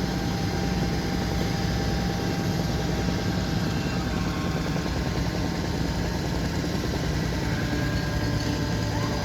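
An engine running steadily at constant speed: an even low hum with a few faint steady tones above it.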